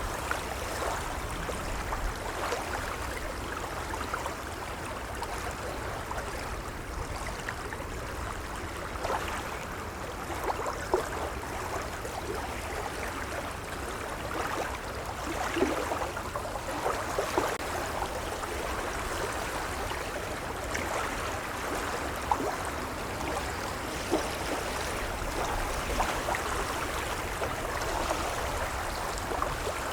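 Gentle waves lapping: a steady wash of water with many small splashes and gurgles over a low rumble.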